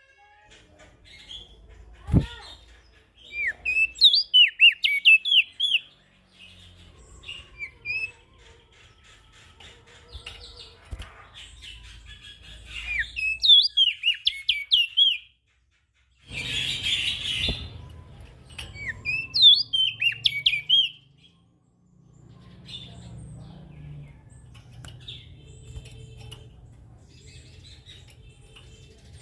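Prenjak daun songbird singing in repeated bursts of rapid, sweeping high chirps, with pauses of several seconds between phrases. A short, harsh rasping burst comes a little past the middle.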